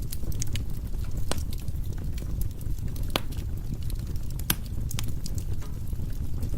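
Firewood burning in a fireplace: a steady low rumble with scattered sharp pops and crackles, the loudest about three seconds and four and a half seconds in.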